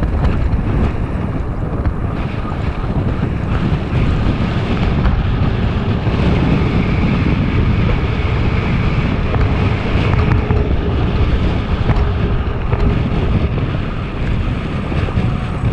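Wind buffeting the microphone while riding an electric bike, a loud, steady rush and rumble.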